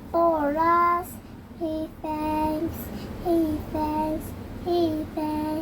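A young child singing the closing line of a worship song, a run of sung notes with a few held ones and short breaths between phrases.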